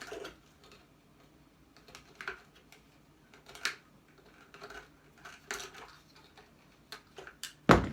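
Small parts and hand tools clicking and clattering while an electrical appliance is dismantled for scrap, in scattered single clicks, with one louder knock near the end.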